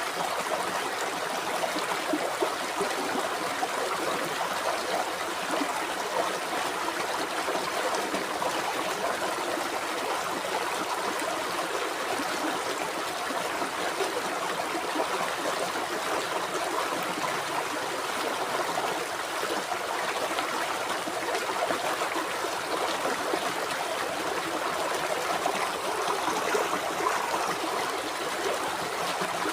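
River water flowing steadily over rocks, a continuous babbling rush with small splashes and trickles.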